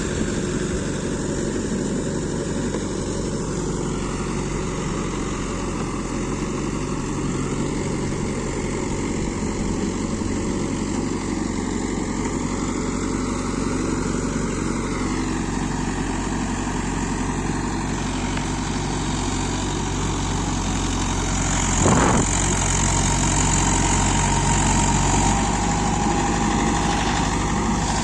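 Mahindra Yuvo 585 tractor's diesel engine running steadily. Late on a single sharp knock is heard, after which it runs a little louder with a higher steady whine added.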